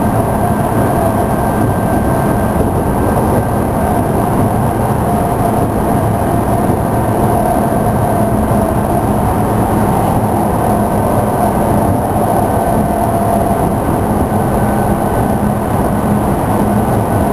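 Tokyu 5000 series electric commuter train running between stations, heard inside the passenger car over a motor bogie: a steady rumble of wheels on rail with a steady whine on top.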